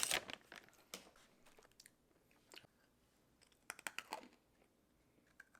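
A person biting and chewing crunchy freeze-dried chocolate fudge: faint, scattered crisp crunches, with a short cluster about four seconds in.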